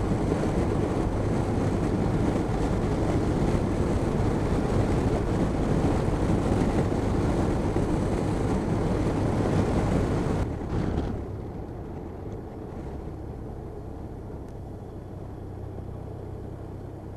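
Motorcycle on the move: engine hum under heavy wind rush on the microphone, which falls away suddenly about two-thirds of the way through, leaving a quieter engine drone.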